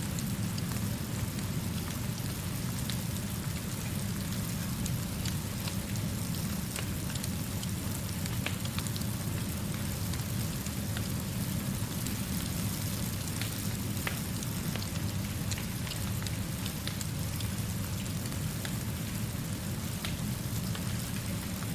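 Steady rain falling, with a constant low rumble beneath it. A fire crackles with sparse, sharp pops.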